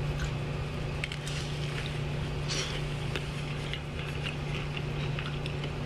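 A person chewing a bite of soft, caramel-coated monkey bread with the mouth closed: faint small wet clicks. A steady low hum runs underneath.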